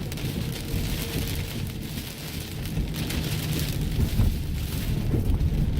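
Heavy rain pelting a car in a wind-driven thunderstorm, a dense hiss over a low rumble, easing briefly and then building again.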